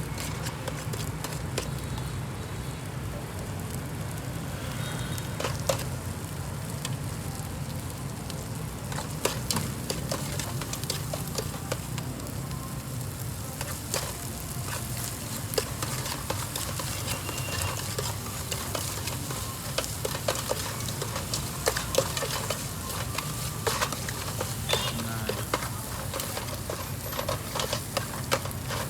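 Corn being stir-fried with dried shrimp in a hot pan: steady sizzling, with frequent sharp clicks and scrapes of a utensil stirring against the pan.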